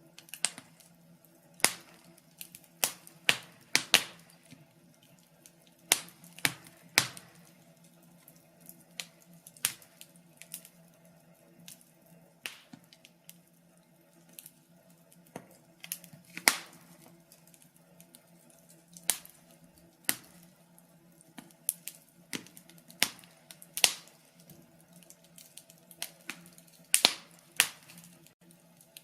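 Wood fire crackling, with sharp irregular pops and snaps one or two a second over a faint low hum.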